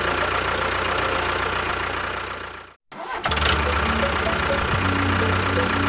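A small engine runs steadily, then fades out about halfway through. After a brief dead silence, background music begins with low sustained bass notes.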